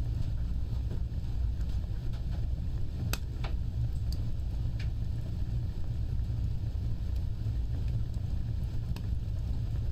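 Fire burning with a steady low rumble and a few sharp crackles and pops scattered through it.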